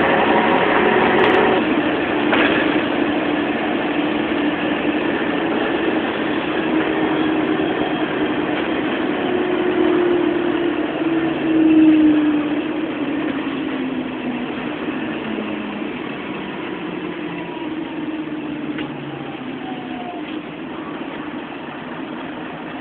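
Scania bus diesel engine running under load, its pitch sliding down and stepping as it changes gear, loudest about twelve seconds in and then growing steadily fainter.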